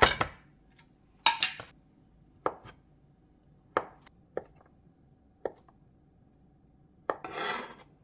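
Kitchen utensil sounds: a sharp knock at the start, a short clatter about a second in, then single knocks and clinks spaced a second or so apart, and a longer scraping rustle near the end.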